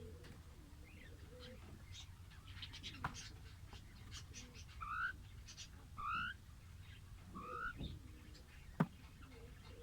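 Lovebirds chirping: short rising chirps, three of them about a second apart midway, among softer twittering, with a couple of sharp clicks.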